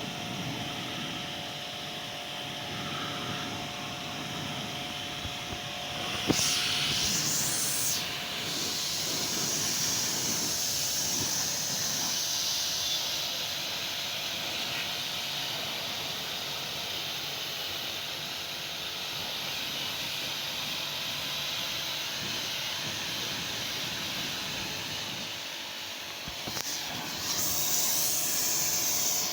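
Car-wash water spray hissing steadily, with a sharp click about six seconds in and two louder bursts of spray, one just after the click and one near the end.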